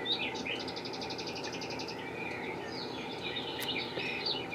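Small birds chirping and twittering, with a fast trill of about ten notes a second about a second in.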